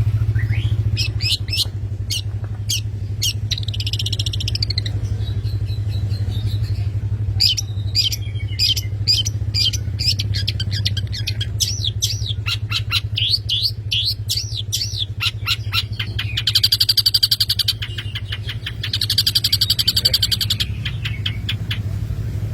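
Long-tailed shrike (cendet) singing vigorously: a rapid run of sharp, sweeping chirps, broken twice near the end by fast buzzy trills. A steady low hum runs underneath.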